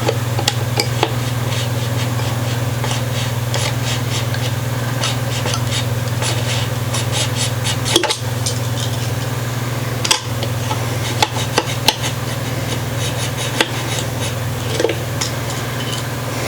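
An X-Acto hobby-knife blade sawing through wooden toothpick ends with quick, repeated scraping strokes in runs broken by short pauses, over a steady low hum.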